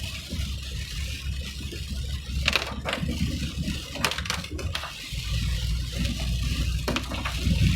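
Vehicle driving on a rain-wet road: a steady low rumble with a hiss of water off the tyres, and a few sharp clicks or splashes.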